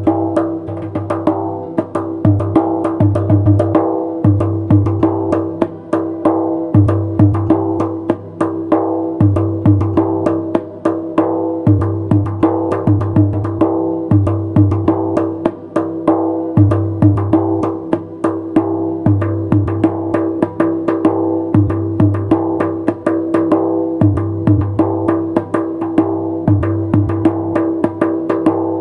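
Darbuka drumming: a fast run of sharp strokes with deeper bass beats every second or two, over a steady sustained tonal accompaniment.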